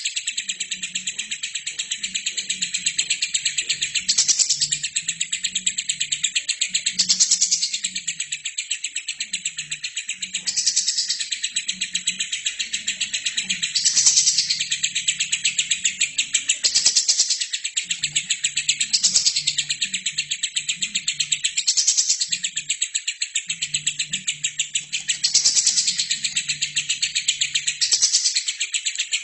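Albino lovebird singing one long, unbroken, rapid chattering trill that swells louder every few seconds.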